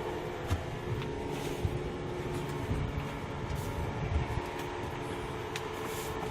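Scattered knocks and clicks of people moving through a wrecked bus, over a steady low rumble.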